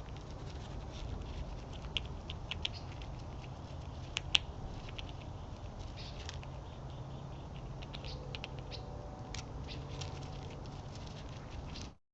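Small animals feeding on scattered food: irregular small clicks, taps and pecks, a few sharper ones, over a steady low rumble. The sound cuts off abruptly at the very end.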